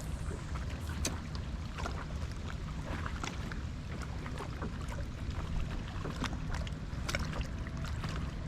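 Water lapping against a small kayak's hull, with a steady low wind rumble and scattered small clicks.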